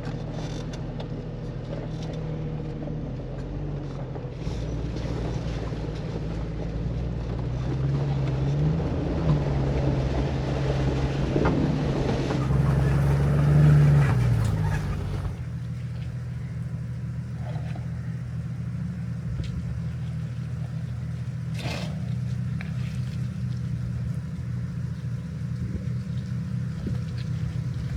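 Jeep Cherokee XJ engine pulling at low speed up a rocky mountain trail, its note rising twice in the first half. A rough, noisy rumble rides over it and stops abruptly about halfway, after which the engine runs on steadily.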